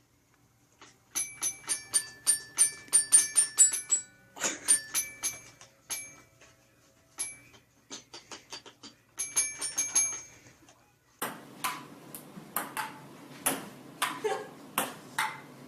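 Small bells tinkling in quick, irregular clicks and short high rings for most of the first ten seconds. From about eleven seconds in this changes to a run of taps over a rustling hiss.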